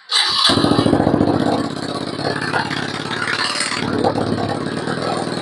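Kawasaki KLX single-cylinder engine with a Nurifumi aftermarket exhaust starting: it catches abruptly, runs louder for about the first second and a half, then settles into a steady idle with a brief swell about three and a half seconds in.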